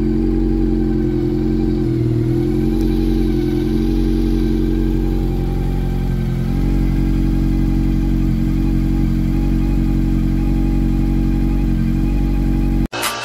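Honda CB400 motorcycle engine running steadily at idle after its cam-train ticking was repaired, with a brief change in pitch about two seconds in. It cuts off abruptly just before the end.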